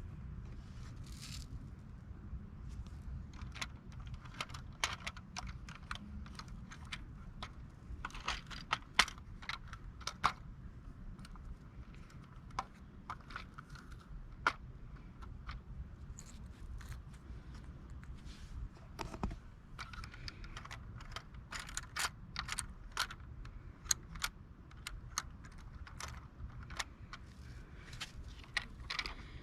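Irregular small clicks, taps and rattles of a die-cast model garbage truck being handled.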